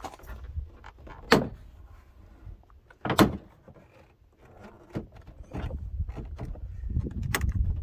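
Plastic retaining clips of a truck's interior door trim panel snapping loose as the panel is pulled off by hand. Sharp snaps, the loudest about one and a half and three seconds in and another near the end, among handling and rustling of the panel.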